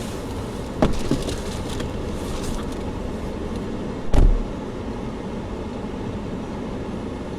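Steady road and engine noise of a moving car heard from inside the cabin, with a sharp knock about a second in and a heavier low thump about four seconds in.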